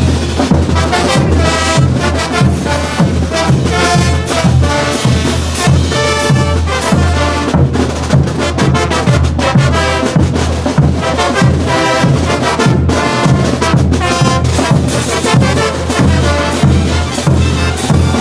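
Bolivian brass band playing a morenada: trumpets and trombones carry the tune over a strong low bass line and a steady drum and cymbal beat.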